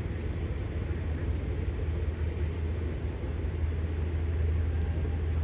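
Steady low drone of a turboprop floatplane's engine running, growing slightly louder near the end.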